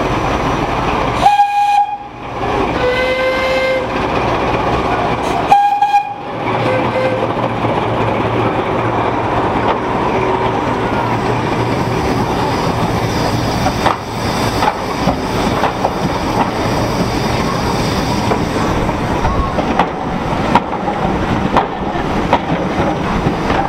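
A passenger train running past at close range: a steady rumble of locomotives and coaches, with wheels clicking over the rail joints in the later part. A locomotive sounds two short blasts, about a second in and again near six seconds.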